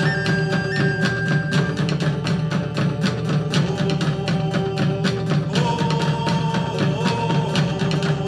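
Live band music: fast, steady drumming under a held melody line that moves in long notes.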